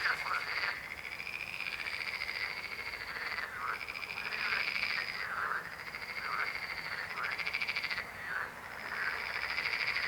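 Frogs croaking in a chorus: long, rapidly pulsed trills, each lasting a second or two, follow one after another, with shorter croaks in between.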